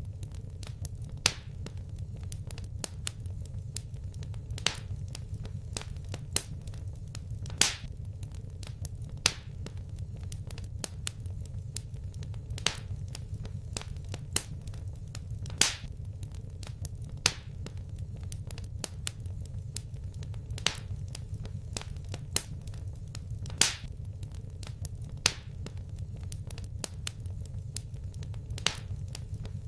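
Wood fire crackling in a fireplace: irregular sharp pops and snaps, every second or two a louder one, over a steady low rumble of the burning fire.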